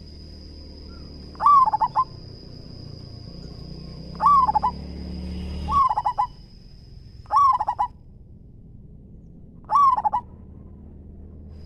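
Zebra dove cooing: five bursts of its quick, stuttering coo, each about half a second long, spaced a couple of seconds apart.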